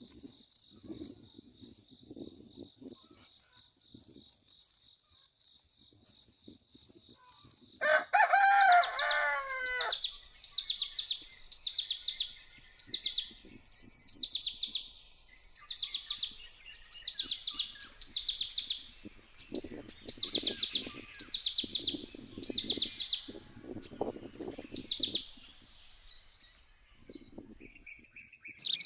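Outdoor nature ambience: insects trilling in a fast, even pulse, with birds chirping repeatedly. About eight seconds in, one loud, longer call with a falling pitch stands out above the rest.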